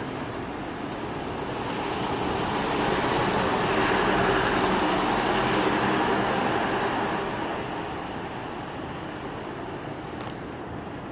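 A car driving past on the road: its tyre and engine noise swells to a peak about four seconds in, then fades away by about eight seconds.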